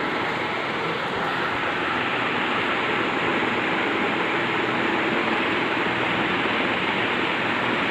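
Ceiling fan running steadily: a constant rush of moving air with a faint steady motor hum underneath.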